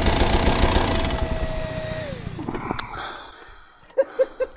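Dirt bike engine idling, then switched off about two seconds in, its pitch falling as it winds down to a stop. A quick run of short clicks follows near the end.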